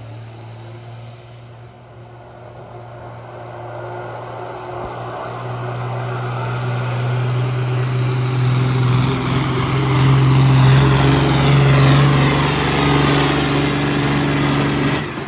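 Pulling tractor's engine running at full power as it drags the sled down the track, growing steadily louder over the first ten seconds and staying loud near the end.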